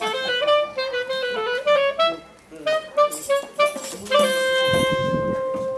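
A woodwind melody played live: a run of quick notes, then one long held note starting about four seconds in, with a brief low rumble under it.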